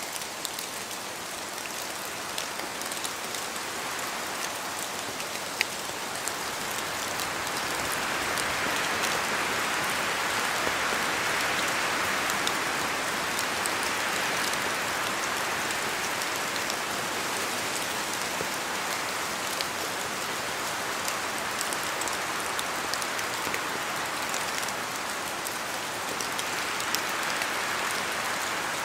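Steady rain in a forest, with many individual drops ticking down from the trees and wind blowing through. The hiss swells for several seconds about a third of the way in, then eases.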